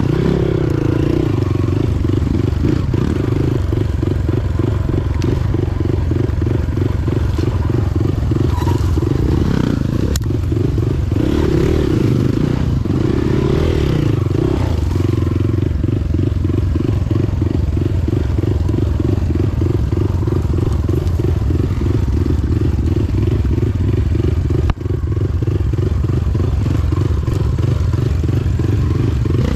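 Motorcycle engine running steadily under way, with an even fast pulse; its pitch rises and falls a few times in the first half as the throttle changes. One short sharp knock about 25 seconds in.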